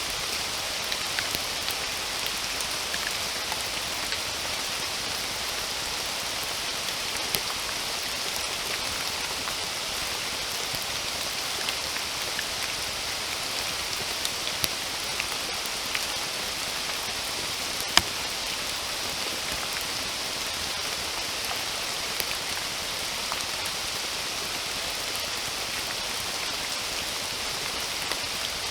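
Steady rain falling, a continuous hiss with scattered sharp drops striking close by; one drop about two-thirds of the way through is louder than the rest.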